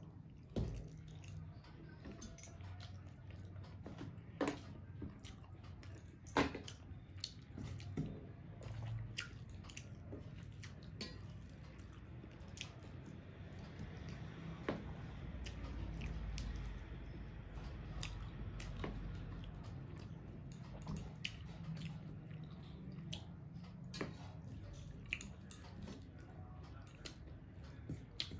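A person chewing and biting mouthfuls of rice and chicken curry, eaten by hand, with wet mouth sounds and short sharp clicks scattered throughout.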